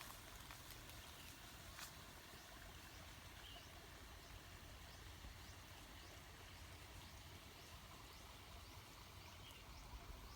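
Near silence: faint outdoor ambience with a steady low rumble, one faint click about two seconds in and a couple of faint bird chirps.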